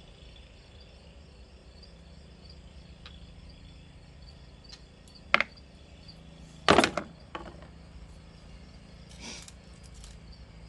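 A few sharp knocks and clicks of hand tools working on a lawnmower, the loudest a quick cluster of clanks a little past halfway, over crickets chirping steadily in the background.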